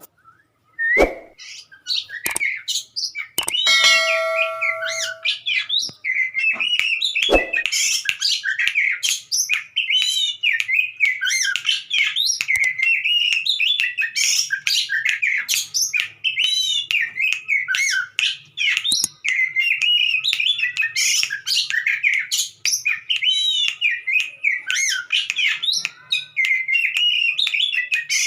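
Oriental magpie-robin (kacer) singing a continuous, rapid and varied song of chirps and warbled phrases, a bird said to be in breeding condition. A few knocks come in the first seconds before the song settles in.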